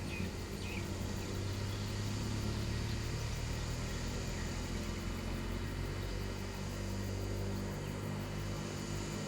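A steady low engine hum that grows a little louder about a second in and holds.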